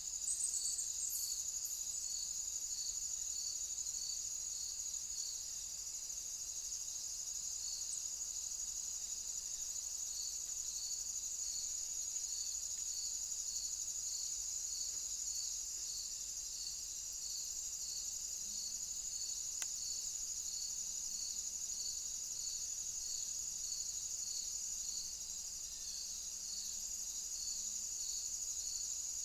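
Insects singing: a steady high buzz, with a separate regular chirp repeating about every half second.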